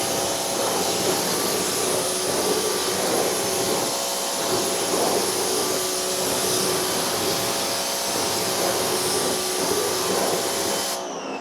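Pressure washer running steadily during a rinse, its motor and pump humming under the hiss of the water jet; it cuts off abruptly near the end.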